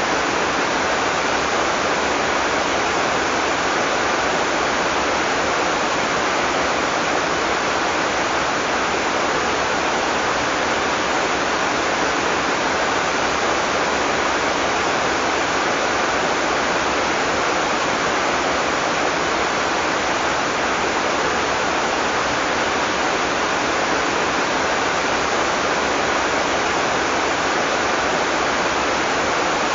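Heavy rain pouring down in a steady, dense hiss, no thunder.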